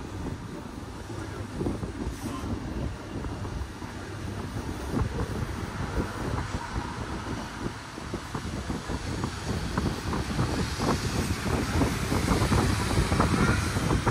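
Metre-gauge Berner Oberland-Bahn train running on its rails: a steady rumble with frequent clicks and rattles from the wheels and cars, growing louder in the second half.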